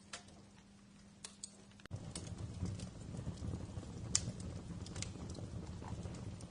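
Wood fire crackling: irregular sharp pops and snaps, the loudest about four seconds in, over a low rumble of burning that gets louder about two seconds in.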